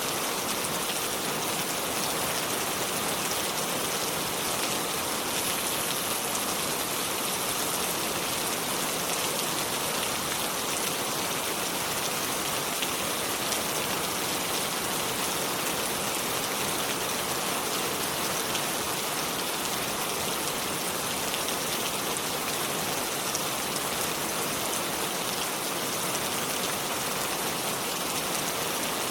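Steady rain falling, an even patter of many fine drops.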